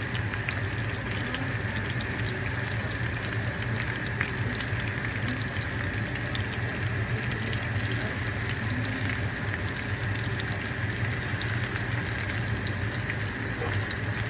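Food sizzling steadily in a hot pan, with scattered small crackles over a constant low hum.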